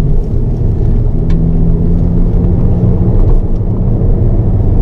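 Hyundai Avante N's turbocharged 2.0-litre four-cylinder engine running steadily under load, with tyre and road noise, heard inside the cabin.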